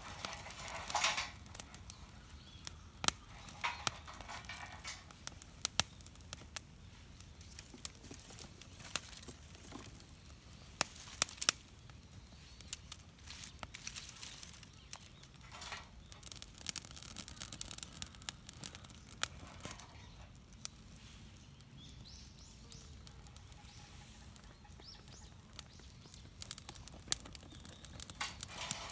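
Wood campfire crackling, with scattered sharp pops at irregular intervals and a few short spells of rustling or hissing.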